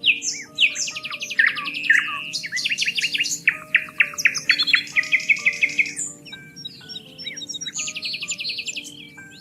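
Several birds singing at once, fast trills and quick chirps overlapping one another, over soft background music of long held notes.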